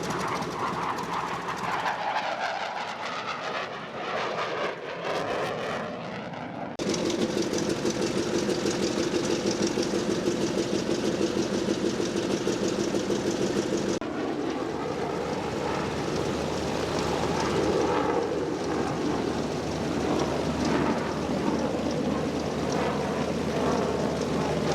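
Propeller-driven WWII warbird piston engines running in flight, a steady drone across several cut-together clips, with abrupt changes in the sound about 7 and 14 seconds in.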